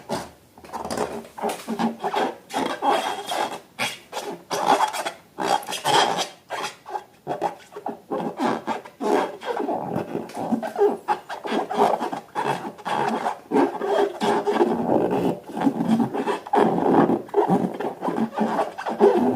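Slime being worked, stirred and kneaded: a continuous, irregular rubbing and scraping with many small clicks and squelches.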